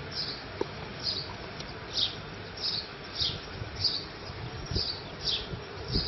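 A small bird calling with short, high, slightly falling chirps, about nine of them at slightly uneven intervals of a little over half a second. They sound over a steady background hiss.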